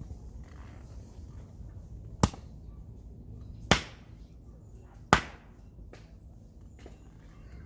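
Three sharp chopping blows about a second and a half apart, each dying away quickly, typical of splitting firewood for a campfire.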